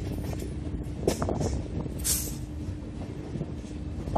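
Indian Railways passenger coach running at speed, heard from beside its side: a steady rumble of wheels on the rails with a faint steady hum. There are a few short knocks about a second in and short bursts of hiss, the strongest about two seconds in.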